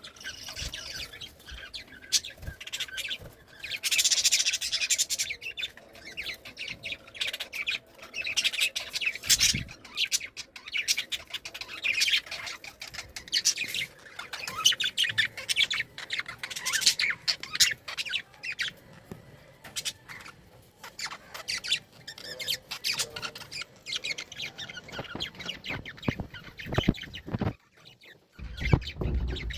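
A group of pet budgerigars chattering, with a steady stream of quick chirps, warbles and occasional squawks. There is a short low bump near the end.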